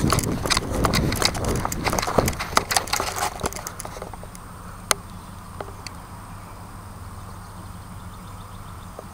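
A rapid flurry of knocks, clicks and rustles from people moving about and handling gear for the first three seconds or so. It then gives way to a quiet, steady background with a single sharp click about five seconds in.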